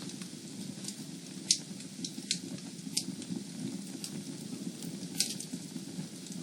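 Fire burning in a fireplace: a steady low rumble of flames with irregular sharp crackles and pops, the loudest about a second and a half in and again about five seconds in.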